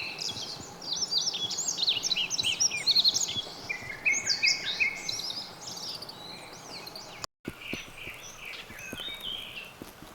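Wild songbirds singing, a dense run of quick chirps and whistles over a light background hiss, cut off briefly just past seven seconds and then continuing more quietly.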